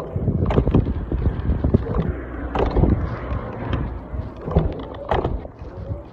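Wind rumbling on the microphone, with irregular knocks and rattles about once a second.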